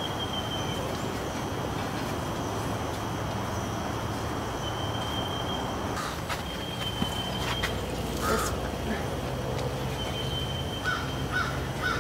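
A bird calling: one call about eight seconds in, then a quick run of about five repeated calls near the end, over rustling of tomato foliage being handled, with a few sharp clicks and a faint steady high tone.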